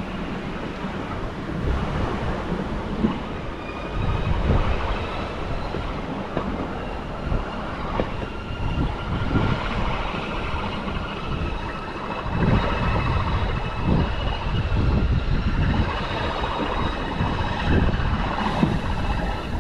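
Berner Oberland Railway narrow-gauge electric train running along the track: a continuous rolling rumble with irregular low thumps from the wheels on the rails, and a faint high whine through the middle and later part.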